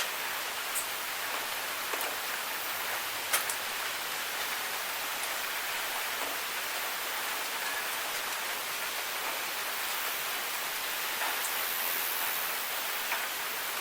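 Steady rain falling, an even hiss with a few sharper drop ticks, the loudest about three seconds in.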